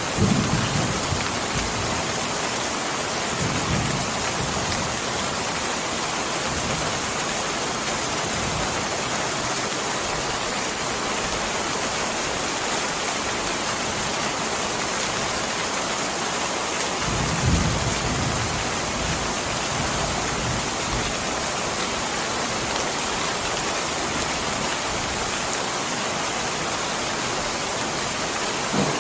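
Steady rain hissing without a break, with brief low rumbles of thunder at the start, about four seconds in and about seventeen seconds in.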